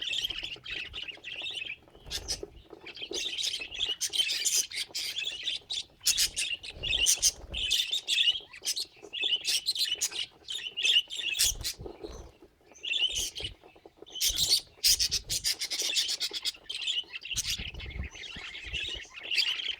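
Budgerigars chirping and chattering continuously, mixed with scratchy clicks and a few dull low bumps.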